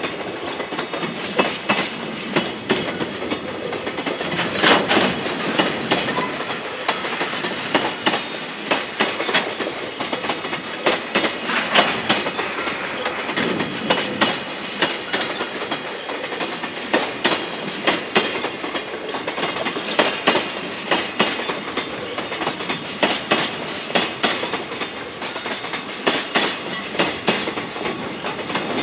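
Freight train wagons rolling past on the line, their wheels clattering over the rail joints again and again with several knocks a second over a steady rumble.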